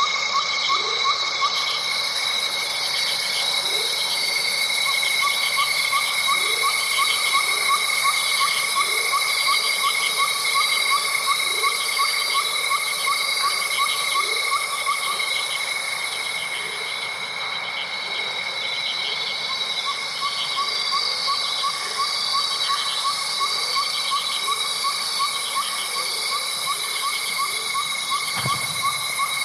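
Night nature chorus: steady high-pitched insect trilling with a fast pulsing trill that drops out for a few seconds midway. Short rising calls repeat about once a second underneath.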